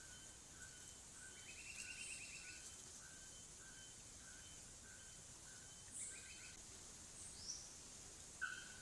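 Faint forest birdsong: a short note repeated about twice a second, broken by two quick rattling trills and a sharp call near the end.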